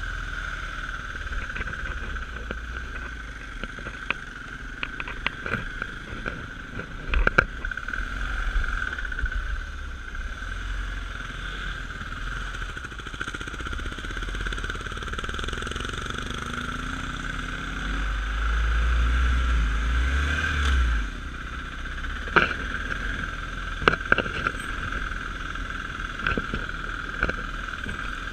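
Dirt bike engine running steadily while riding, with a low rumble that swells for a few seconds past the middle. A few sharp knocks come from the bumpy ride.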